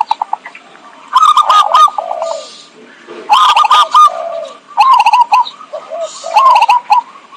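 Zebra dove (perkutut) cooing: loud repeated phrases of quick stuttering notes that run into hooked coos, a new phrase every second or two.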